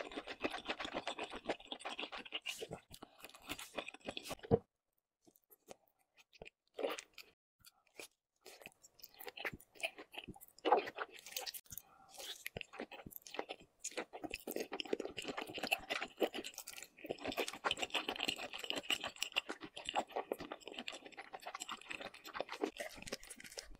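Close-miked eating sounds: dense wet chewing that stops abruptly about four and a half seconds in. Scattered mouth clicks follow as a slice of raw salmon with sauce is bitten near the middle, then steady chewing returns for the second half.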